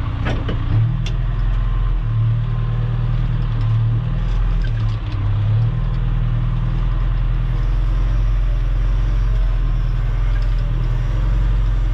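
Engine of a wheeled earthmoving machine running steadily as it drives across gravel, a low, continuous drone.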